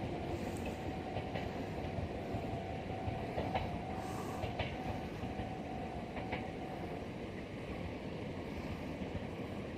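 Meitetsu electric train running away down the line, a steady rumble with scattered clacks of its wheels over the rails and a thin steady hum that stops about seven seconds in.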